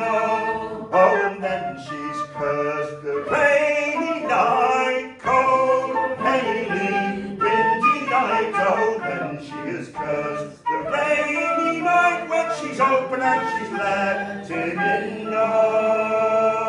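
Two men singing a traditional English folk song unaccompanied in close harmony, through the final chorus, and ending on a long held note near the end.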